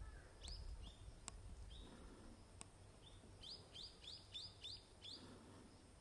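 A bird's short high chirps, a few scattered and then a quick run of about six a little past halfway. Two sharp clicks, from a camera shutter, fall about one and two and a half seconds in.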